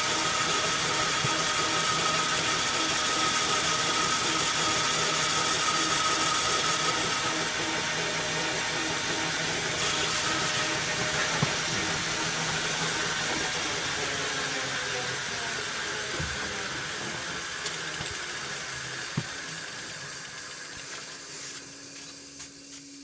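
Metal lathe running, its gear train and motor humming steadily with a high whine in the first few seconds, while an insert boring bar takes light skim passes in a pulley bore, barely touching the metal. The sound fades away over the last several seconds as the lathe winds down.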